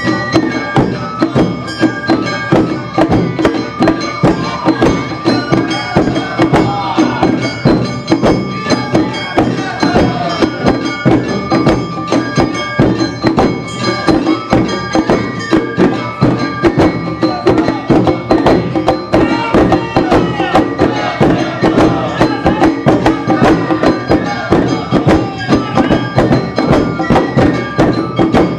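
Awa Odori band music played live: drums beating a fast, steady rhythm under a ringing metal gong, with a bamboo flute and shamisen carrying the melody.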